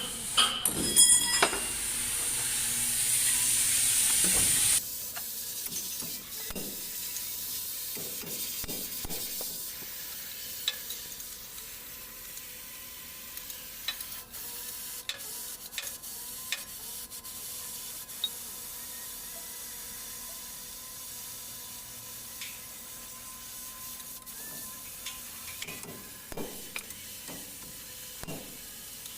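A loud steady hiss for about five seconds that cuts off suddenly, followed by scattered light clicks and knocks over a faint steady hum.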